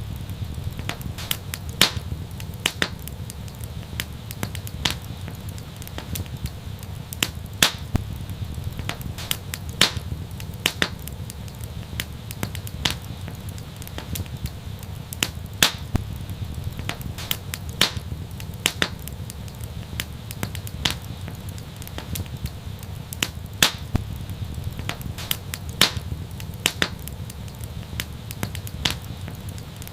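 Wood fire crackling: irregular sharp pops and snaps several times a second over a steady low rumble of burning.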